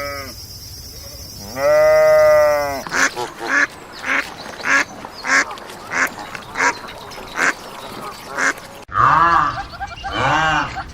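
Animal calls in quick succession: one long drawn-out call, then a run of short calls repeated about twice a second. After a sudden cut, louder calls that rise and fall in pitch.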